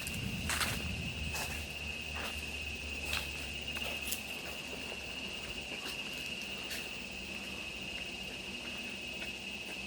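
An insect calling with one unbroken high-pitched buzz at a single steady pitch, with a scattering of sharp clicks, mostly in the first four seconds.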